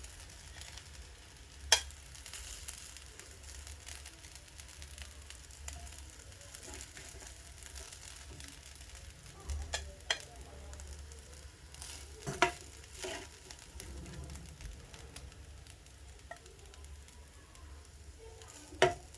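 Vegetable fried rice being spooned out of the pot, with a faint steady sizzle under it. The spoon knocks sharply against the cookware about half a dozen times; the loudest knocks come about two seconds in, around twelve seconds in and near the end.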